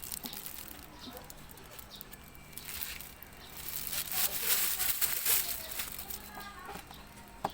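Garden soil being scooped and pressed into the cells of a paper egg tray: crumbly rustling in a few bursts, loudest about three seconds in and again between four and five and a half seconds.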